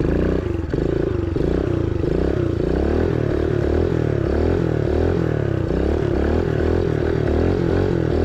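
Kawasaki KLX110 pit bike's small single-cylinder four-stroke engine running, its pitch swinging up and down over and over, about twice a second.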